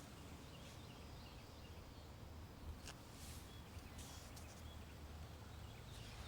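Faint outdoor woodland ambience: a steady low rumble of wind on the microphone, with a few faint high chirps and soft clicks about three and four seconds in.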